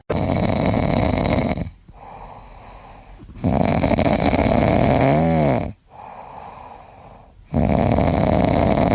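A sleeping pet snoring loudly: three long snores about four seconds apart, with quieter breathing between them.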